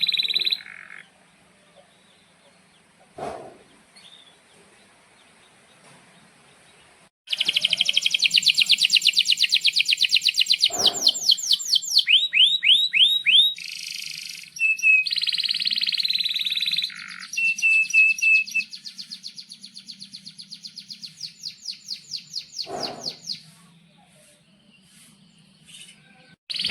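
Domestic canary singing: after a quiet stretch, a long high song of fast rolling trills, a few down-slurred whistles and a buzzy note, lasting about sixteen seconds. A few soft knocks fall in the pauses.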